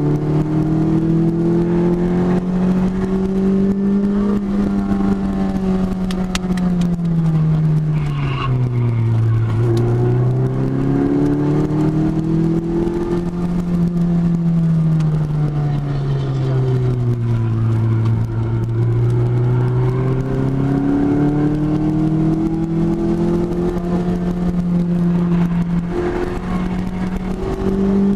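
2006 Lotus Elise's four-cylinder engine heard from inside the cabin at speed, its note rising under acceleration and falling away as the throttle is lifted for the corners, three climbs and two drops. Steady road and wind noise runs under it.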